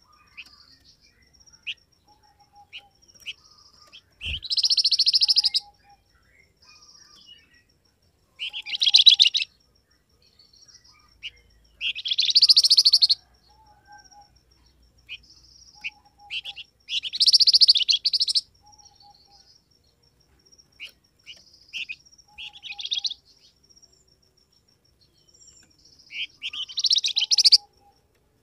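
Song of the bird known in Indonesia as the flamboyan: loud, rapid, high-pitched chattering phrases about a second long, coming roughly every four to five seconds, with short high chirps between them.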